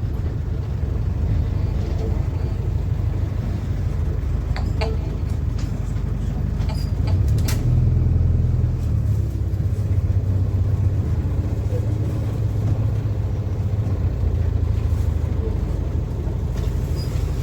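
PAZ-4234-05 city bus under way, heard from inside the cabin: a steady low diesel engine and drivetrain drone that swells slightly about halfway through, with a few short rattles or clicks around a third of the way in.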